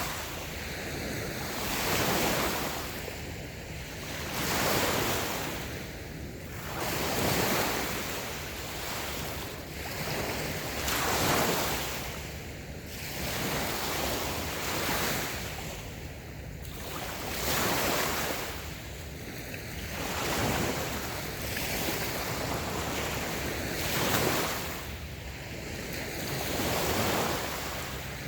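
Small, light waves washing in on a sandy beach, each soft wash swelling and fading again about every two to three seconds.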